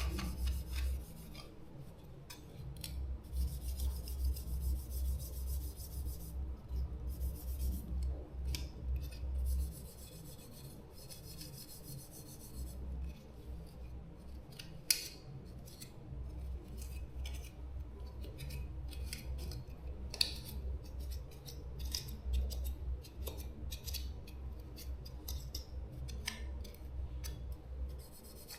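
Hand-tool work on small parts: repeated scraping and rubbing with many short clicks, and a low hum that runs in two long stretches.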